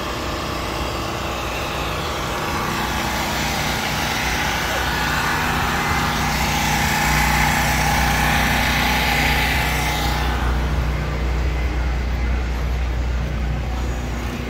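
Ford Mustang's engine running as the car rolls slowly past. It is loudest around the middle and drops off after about ten seconds, over a steady hum of other idling engines.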